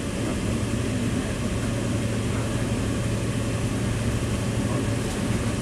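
Steady rumble and low hum of a moving commuter train, heard from inside the carriage.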